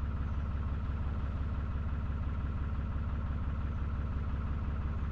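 Narrowboat diesel engine idling steadily, an even low hum with no change in speed.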